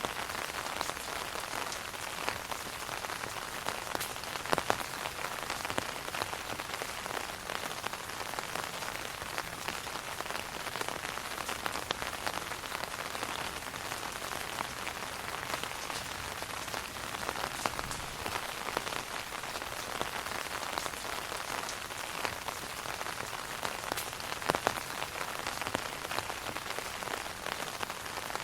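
Steady rain falling on an umbrella canopy: a dense, even hiss of drops, with an occasional louder single drop.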